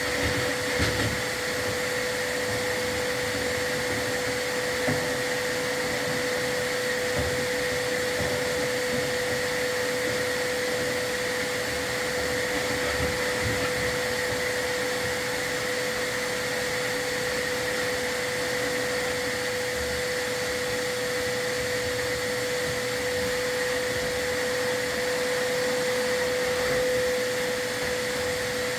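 A vacuum running steadily with a constant whine, the dust-collection vacuum of a chimney sweep working the fireplace; a few faint knocks sound over it.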